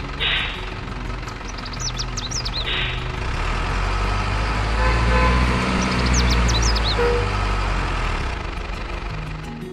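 Radio-controlled construction vehicle running with a steady engine-like hum that grows louder through the middle and eases off near the end. Short hissing bursts come near the start and again about three seconds in, and high squeaks come twice.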